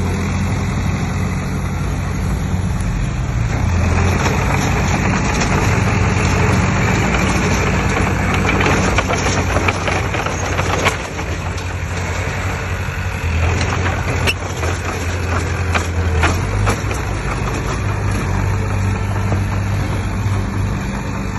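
A heavy diesel earthmoving machine's engine running steadily, with a noisy rush over it from about four to eleven seconds in and scattered clanks.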